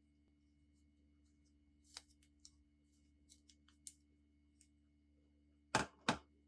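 A few light clicks and taps, then two sharp, louder knocks close together near the end.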